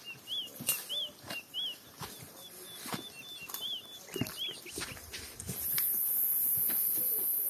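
A forest bird calls over and over with short rising-and-falling chirps, about two a second, while footsteps crunch on leaf litter. About six seconds in, a loud, steady, very high-pitched insect drone starts.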